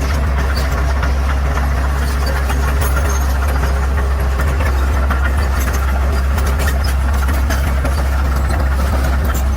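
Bulldozer's diesel engine running steadily with a strong low drone, and frequent sharp clicks and clanks over it.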